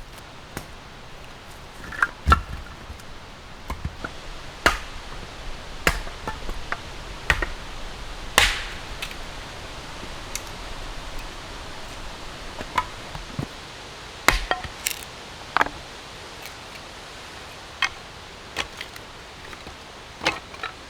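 A dozen or so irregular sharp knocks and taps, spaced a second or two apart, with the loudest about two and eight seconds in, over a steady hiss.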